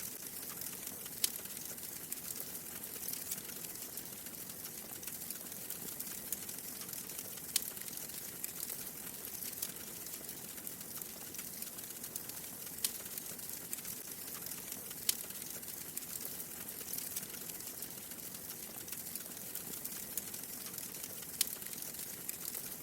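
Wood fire crackling steadily: a continuous soft hiss of fine crackles with a few sharper pops scattered through, about five.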